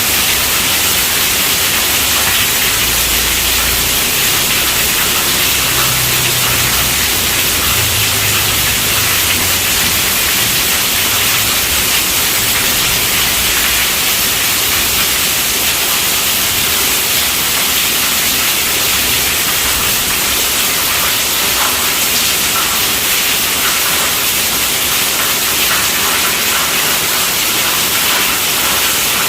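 Steady rainfall, a dense even hiss that does not let up.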